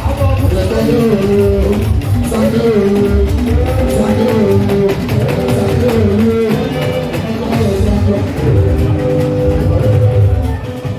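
Live party music: a band with guitar and drums, and singing, playing a steady beat.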